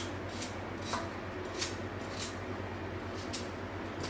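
A knife cutting up a raw potato, giving a few crisp, irregular clicks as the blade cuts through.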